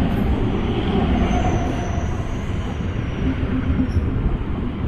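Electric multiple-unit local train passing close at speed: a steady, loud rumble of wheels on rails, with a faint thin whine over it for a couple of seconds in the middle.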